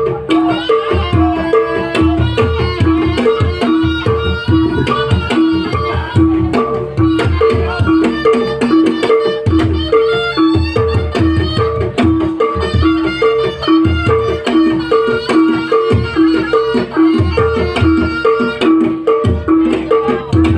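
Javanese traditional trance-dance music: hand drums play a busy rhythm under a steadily repeating two-note pitched-percussion figure, with a melody line above, all continuous and loud.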